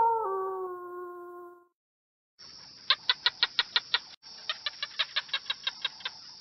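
A wolf's howl sliding down in pitch and fading out in the first second and a half. After a short silence come two runs of quick clicking pulses, about seven a second, over a steady high hiss.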